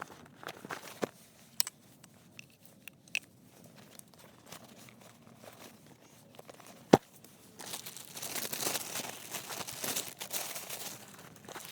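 Knife shaving and scraping wood while carving a spoon: scattered sharp clicks, one loud click about 7 seconds in, then a stretch of dense, crackly cutting from about 8 to 11 seconds.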